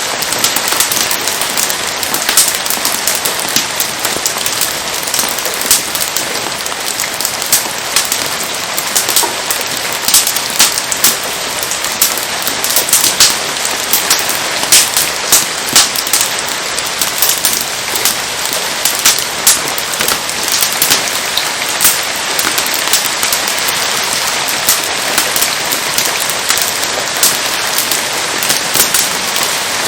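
Steady rain hiss with a wood campfire crackling through it: many short, sharp pops and snaps scattered across the steady noise.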